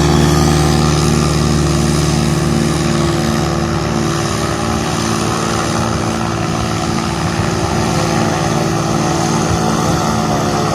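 Homemade propeller-driven amphibious craft running at speed on the water: its Bajaj Pulsar NS200 single-cylinder motorcycle engine turning the propeller gives a loud, steady drone with an even pulsing beat.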